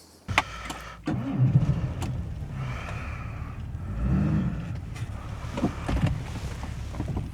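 Jaguar XJ6 straight-six cranked on the starter and catching about a second in, then running steadily. The engine has a leaking head gasket and has been running poorly.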